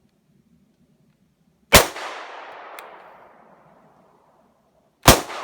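Two shots from an HK P30 pistol about three seconds apart, each ringing out in a long fading echo.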